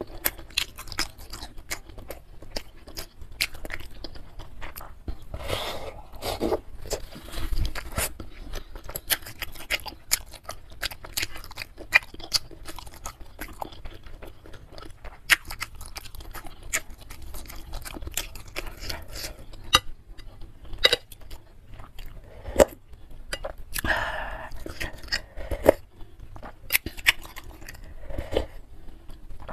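Close-miked chewing of bakso urat (beef-tendon meatballs) and noodles: wet mouth sounds with many small sharp clicks, and a couple of longer slurps of soup.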